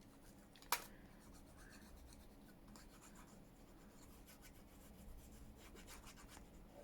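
Faint rustling and rubbing of paper being handled and pressed down, with one sharp click just under a second in.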